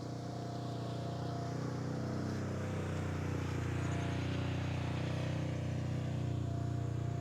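A vehicle engine running steadily, growing louder over the first few seconds and then holding level.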